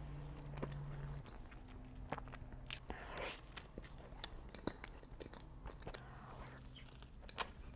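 Close-miked eating: biting and chewing food, with small irregular mouth clicks and a little crunch.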